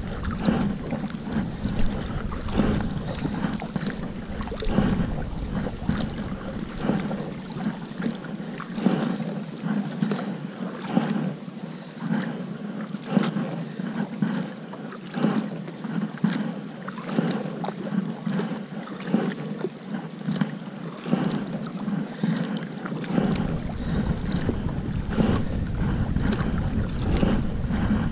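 Kayak paddling into wind-driven chop: regular splashes of the paddle blades dipping on alternate sides over a steady wash of moving water. Low wind rumble buffets the microphone at the start, fades for most of the middle, and returns near the end.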